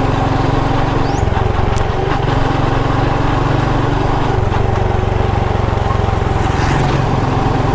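Motorcycle engine running steadily while being ridden, its note shifting slightly a couple of times.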